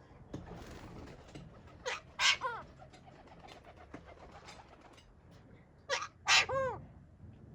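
Pet green parrot calling twice, about four seconds apart. Each call is a short sharp note followed by a longer, harsher note that bends down in pitch.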